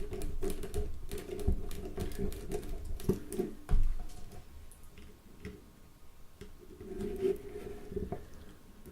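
Small screws being driven into a Nokia 3310's plastic housing with a small screwdriver: light, irregular clicking and tapping, with one louder knock a little under four seconds in.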